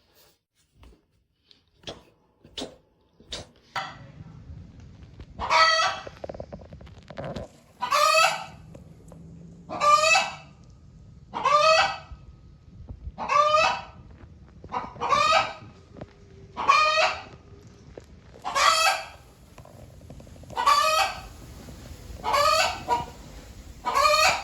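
A bird calling over and over: about eleven short, loud calls, roughly one every two seconds, starting about five seconds in after a few faint clicks.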